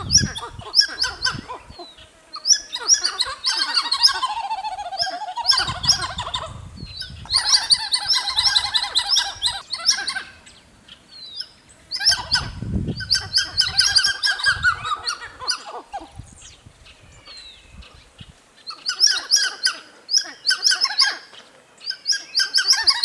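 Monkeys giving rapid, high chattering alarm calls to one another, in bouts of a few seconds separated by short pauses, with several animals calling.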